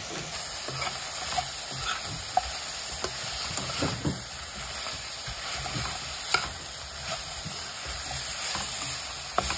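Pork pieces and sliced onions sizzling as they fry in a steel kadai, stirred with a metal ladle that scrapes and clinks against the pan every second or two.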